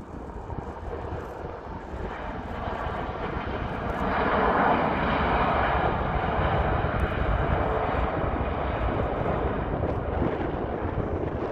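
Airbus A340-600 with four Rolls-Royce Trent 500 turbofans passing close as it comes in to land, with jet noise swelling to its loudest about four to six seconds in, then holding and easing off near the end. Wind rumbles on the microphone underneath.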